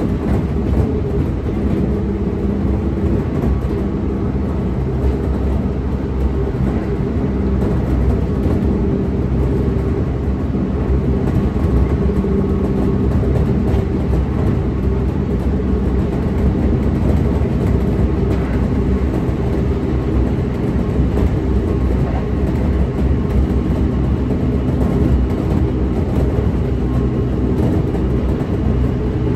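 Kintetsu 1620 series electric train running along the line, a steady loud rumble of wheels on rail with a low steady hum underneath.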